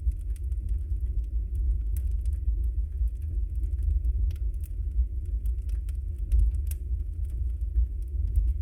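Wood fire burning in a fireplace: a steady low rumble of the flames with frequent small crackles and pops from the burning logs.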